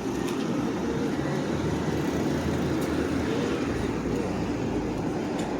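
Steady low rumble of vehicle noise on a city street, growing deeper and stronger about four seconds in.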